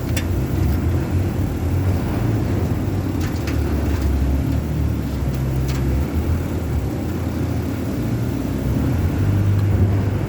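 Steady low rumble of a running engine, with a few light clicks.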